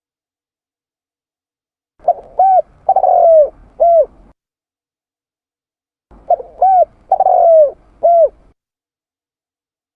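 Spotted dove (tekukur) cooing: two identical phrases, each of two short notes, a longer falling note, then a short note. Between the phrases there is dead silence, as in a looped lure-call recording.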